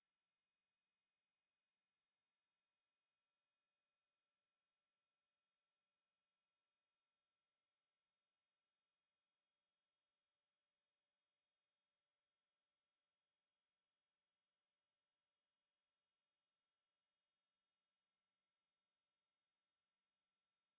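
A steady, high-pitched 11,076 Hz sine-wave test tone, one pure unchanging pitch, as used to test speakers and to shake water and dust out of them.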